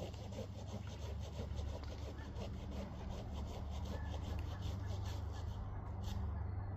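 Hand saw cutting through a wooden limb in quick back-and-forth strokes, about three to four a second, stopping about six seconds in. A steady low hum runs underneath.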